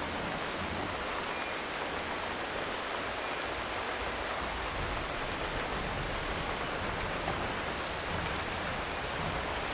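Steady rainfall: an even, continuous hiss of rain falling on surfaces, with no single drops or thunder standing out.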